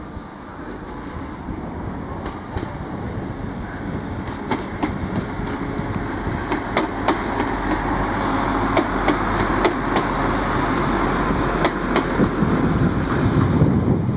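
Class 175 diesel multiple unit running past, its underfloor diesel engines droning, with scattered sharp clicks of the wheels over rail joints. It grows steadily louder as it comes closer.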